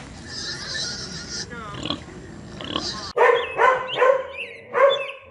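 Pigs for about the first three seconds, then a sudden cut to a dog barking, a run of short barks about half a second apart.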